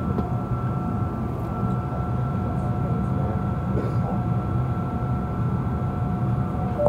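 Steady cabin noise inside a Boeing 777 airliner: a constant low rumble with two thin, steady whining tones above it.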